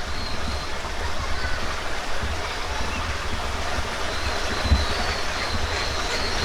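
Steady rush of water falling at a park waterfall, with low gusts of wind buffeting the microphone.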